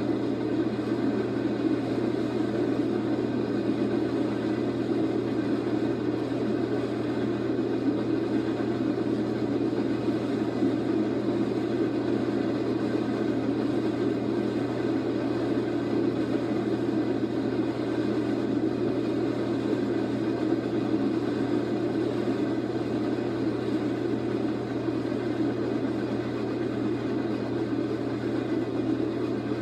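Freight train rolling past, a steady rumble that holds even throughout.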